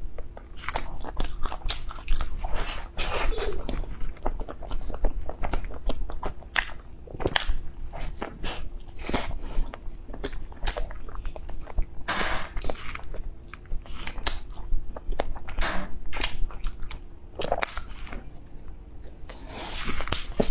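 Close-miked chewing of a soft bread bun filled with ice cream, with irregular sharp mouth clicks throughout. A short burst of noise comes near the end.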